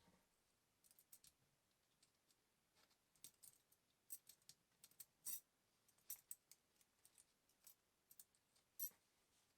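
Irregular light clicks and clinks of small metal parts and tools being handled, the loudest about five seconds in and near the end.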